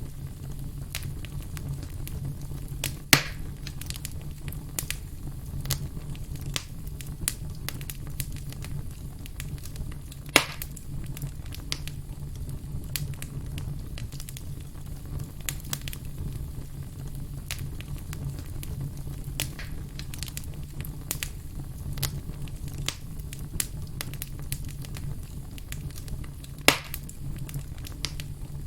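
Wood campfire crackling, with a steady low rumble of the flames under constant small crackles. Three sharp, louder pops come a few seconds in, about ten seconds in and near the end.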